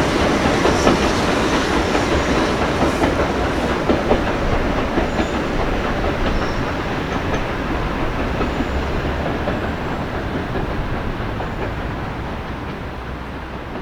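A passenger train's coaches rolling past, wheels clattering over the rail joints, the sound fading steadily as the train draws away.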